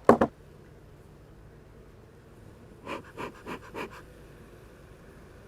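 Rapid panting: one sharp breath at the start, then a run of four quick breaths about three seconds in.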